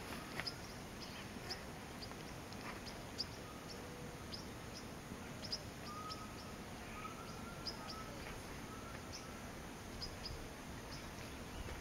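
Faint natural ambience of scattered short, high chirps, with a few soft whistled notes in the middle stretch, from birds calling at a distance.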